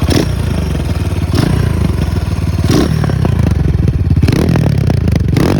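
Dirt bike engine running on soft mud, with a short burst of sound about every second and a half.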